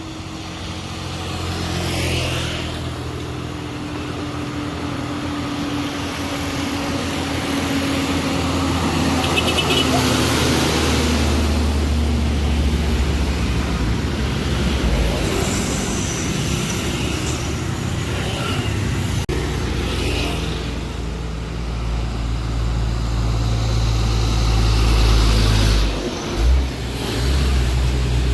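Heavily loaded diesel trucks labouring up a steep hill in low gear, engines running steadily under load, with other road traffic passing. A tone slowly falls in pitch over the first ten seconds, and the engine sound grows louder near the end.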